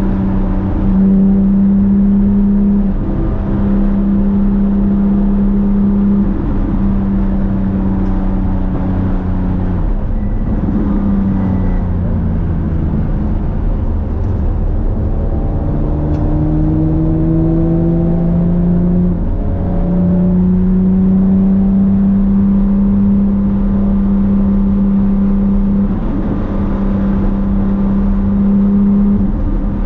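Porsche 997 GT3's flat-six engine running hard at steady high revs. About ten seconds in, the pitch falls away. It then climbs steadily, breaks briefly near 19 seconds as at a gear change, and holds steady and high again through the rest.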